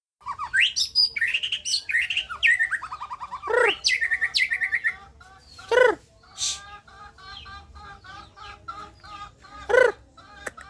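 White-rumped shama (murai batu) singing. Loud, varied whistled phrases and fast trills come first, then after about five seconds a quieter run of short repeated chattering notes, with a few loud falling calls in between.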